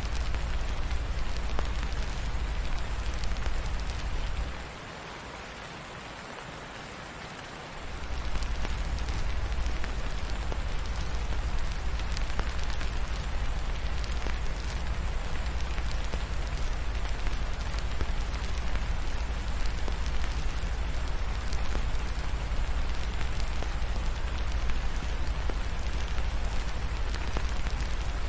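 Steady rain falling, mixed with the scattered crackle of a wood fire in a fireplace. A deep low rumble underneath drops out for about three seconds, starting around four and a half seconds in, then returns.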